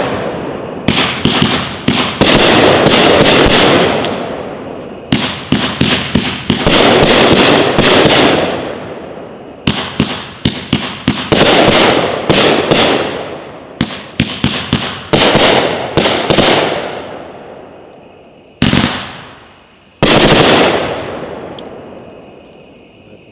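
A 30-shot, 500 g consumer fireworks cake (OMG Fireworks 'Happy Campers') firing willow shells. Volleys of loud, sharp breaks come in quick succession, each fading out slowly afterwards. The volleys thin to a single shot and then a final break near the end.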